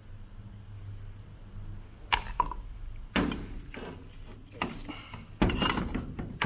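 Parts or tools being handled, with five sharp knocks and clatters and rustling between them.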